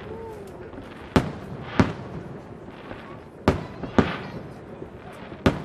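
Aerial firework shells bursting: five sharp bangs at uneven intervals, each trailing off in a short echo, with a few fainter pops between.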